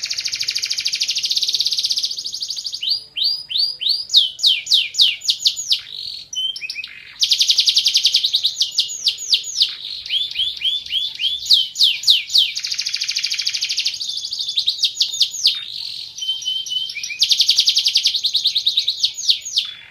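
A domestic canary singing a long, continuous song of fast rolls and trills. It repeats rapid sweeping notes and switches to a new trill every second or two, with only brief pauses.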